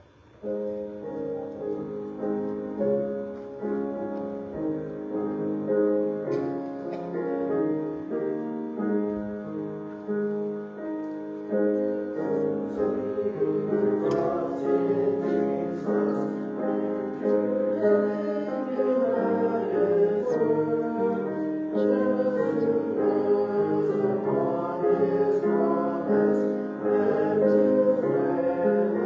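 Piano playing a hymn tune in sustained chords, with congregational singing, growing fuller about halfway through.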